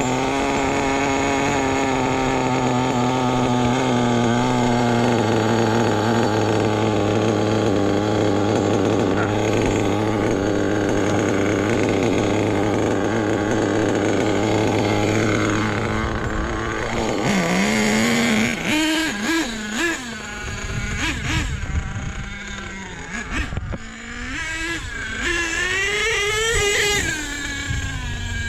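Small nitro RC truck engine running with a high buzz, held fairly steady at first, then revving up and down repeatedly from about halfway through.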